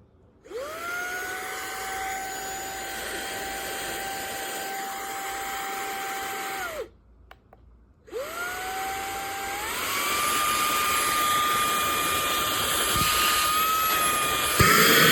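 Small handheld vacuum motor switched on, spinning up to a steady whine, and switched off after about six seconds. It is switched on again and stepped up twice to higher speeds, the whine rising and getting louder each time, the last step near the end.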